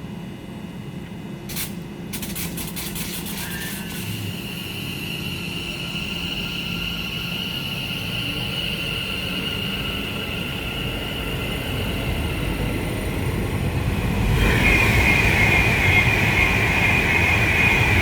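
Electric trains on a main line: a burst of rapid clicks about two seconds in, then a steady high electric whine over a rising rumble, and from about 14 seconds in a Class 390 Pendolino passes at speed, much louder, with a rush of wheels and a strong high whine.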